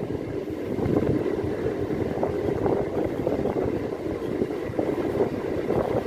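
MEMU electric train running at speed on the track: a steady rumble of wheels on rail and coach noise, heard from an open doorway with wind on the microphone.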